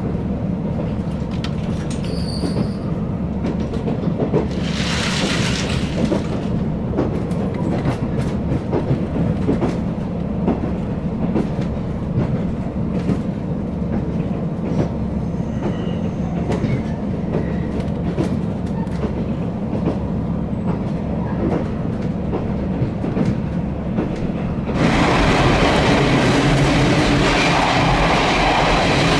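Diesel railcar running, heard from inside the car: a steady rumble with wheels clicking over rail joints, and a brief hiss about five seconds in. About 25 seconds in the noise suddenly turns louder and harsher as the train runs through a tunnel.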